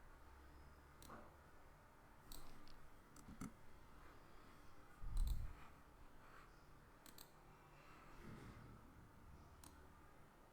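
Computer mouse clicking: scattered single and double clicks every second or two, with one dull low thump about halfway through.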